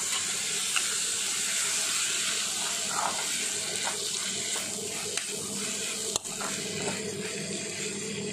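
Okra and tomato sizzling steadily in oil in a kadhai while a metal spatula stirs them, scraping and tapping against the pan now and then, with one sharper knock about six seconds in.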